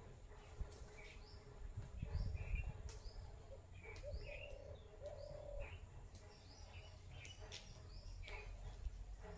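Small birds chirping in short, scattered calls, with a low two-part cooing call between about four and six seconds in. A low rumble on the microphone swells about two seconds in.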